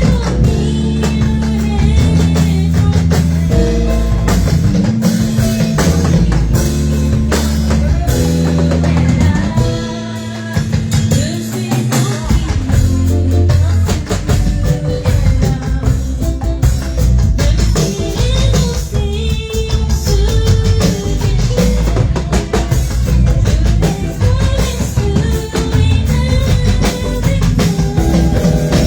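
Live band music with a drum kit keeping a steady beat under sustained bass notes, and a singing voice coming in at times.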